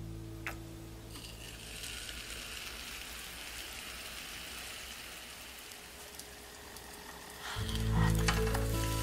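Potato-dough hotteok frying in shallow oil in a nonstick pan: a steady, faint sizzle. Background music fades out at the start and comes back louder about seven and a half seconds in.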